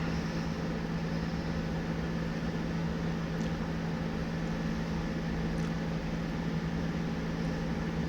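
A 60-inch six-bladed DC-motor ceiling fan running steadily on speed 3, an even whir of moving air over a steady low hum.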